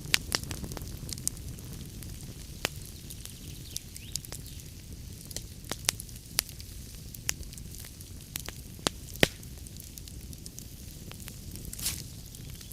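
Wood fire burning in a fireplace: a steady low rumble of flames with irregular sharp crackles and pops from the logs, and a brief hiss near the end.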